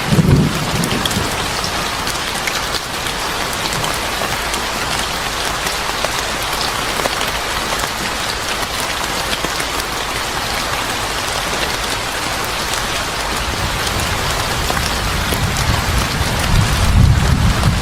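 Steady rain, a dense even hiss dotted with scattered sharp ticks. A low rumble sounds at the very start and swells again near the end.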